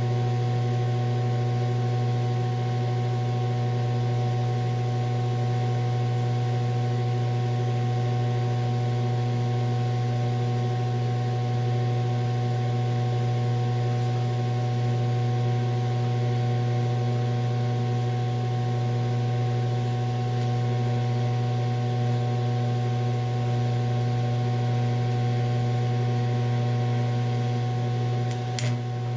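DC TIG welding arc on an aluminum wheel rim (electrode positive, straight argon), giving a steady buzzing hum with several overtones. A brief click and break comes near the end before the hum resumes.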